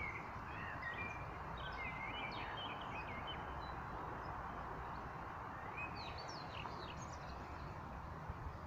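Small birds chirping and twittering in short rising and falling notes, in two spells: during the first three seconds and again about six to seven seconds in. Under them is a steady outdoor background rush.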